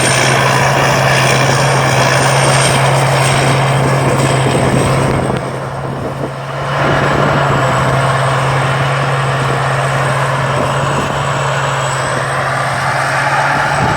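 Thai Seng Yont rice combine harvester running steadily, a strong low engine note under mechanical noise and a thin high whine, dipping for about a second and a half around the middle.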